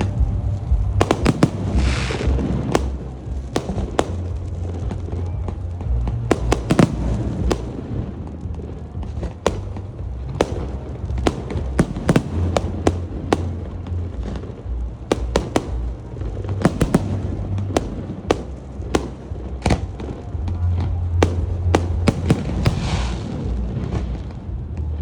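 Fireworks display: a rapid, irregular string of sharp bangs from bursting aerial shells, with spells of crackling hiss about two seconds in and again near the end, over music with a steady bass.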